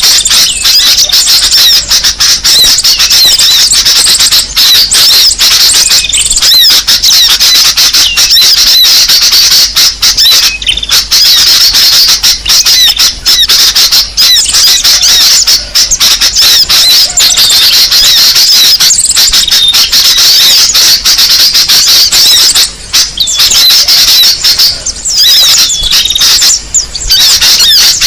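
Bird-lure recording for attracting small birds: a dense, unbroken chatter of many small songbirds' rapid, high chirps and twitters overlapping one another, played loud.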